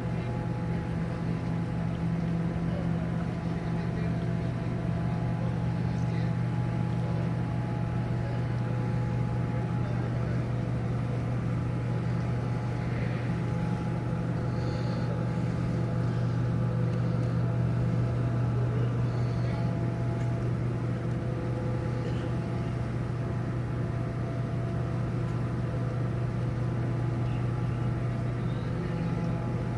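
Steady low hum of the cruise ship Mein Schiff 4's machinery, with several steady tones held above it.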